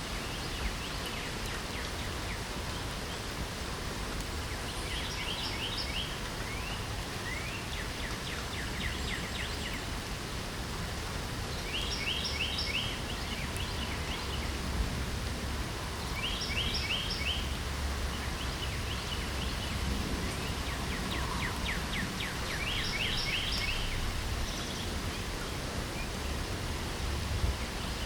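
Steady hiss of light rain with a songbird singing short, quick trilled phrases about five times over it.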